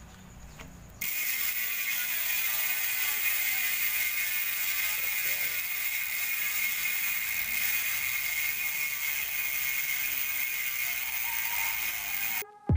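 Tanke bicycle rear hub's freehub ratcheting as the cassette is spun by hand: the pawls clicking so fast they make one loud, steady buzz. It starts about a second in and stops just before the end. The hub has just been modified.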